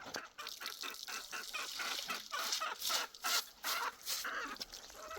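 Poultry calling: a run of short, rapidly repeated calls, loudest about three to four seconds in.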